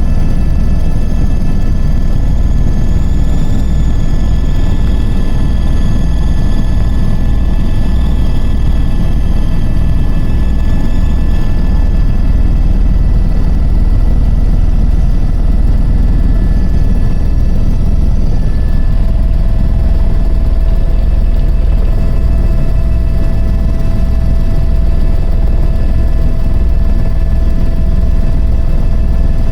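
Helicopter running steadily: a loud, heavy low rotor beat with steady high whining tones from the engine.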